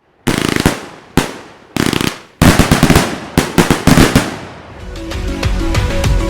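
Fireworks going off: four sharp bangs about half a second apart, each trailing off in crackle, then a dense run of bangs and crackling. Electronic music with a steady beat takes over near the end.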